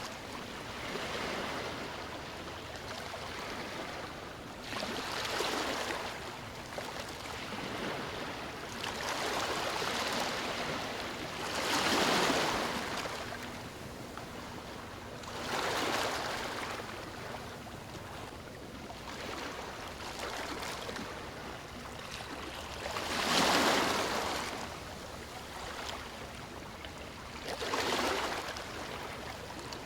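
Sea waves breaking, a steady wash of surf that swells and fades every four to six seconds, with the two biggest waves about twelve seconds in and again near twenty-four seconds.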